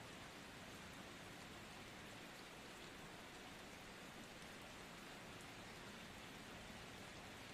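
Faint, steady rain: an even hiss of rainfall.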